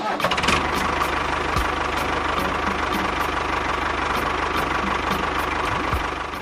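Small motor running steadily at an even speed with a fast, regular chatter and a faint steady whine.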